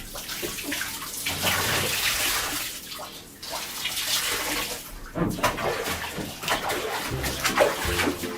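Water sloshing and splashing in a bathtub as a soaked bed cover is worked through the rinse water, in uneven surges that ease off briefly and then turn choppier about five seconds in.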